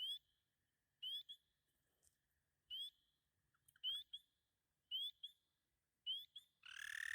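A pond chorus of frogs at night: short, high, rising peeps repeated about once a second. Near the end, a long steady trill starts up, the kind a toad gives.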